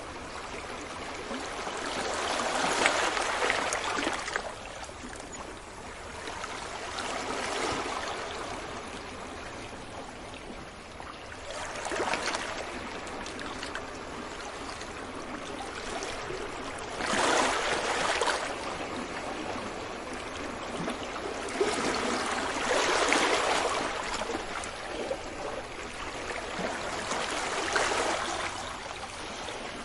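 Ocean waves breaking on a beach, each wave swelling into a rush of surf and washing back, about every five seconds.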